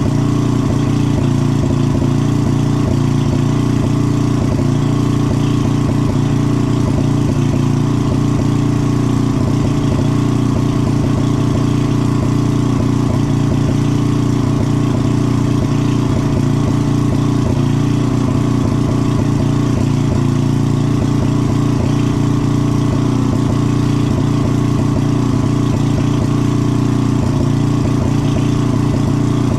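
Electric heat gun or hot air blower running steadily, a loud continuous motor-and-fan hum, used to heat solder paste until it melts.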